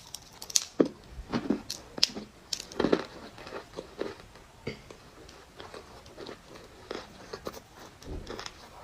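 Dry clay crunching: irregular sharp crackles and crumbles, louder and denser in the first three seconds, then sparser and fainter.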